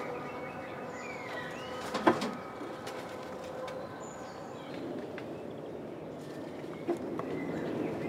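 Birds calling and chirping faintly, with a sharp knock about two seconds in and a smaller one near the seven-second mark.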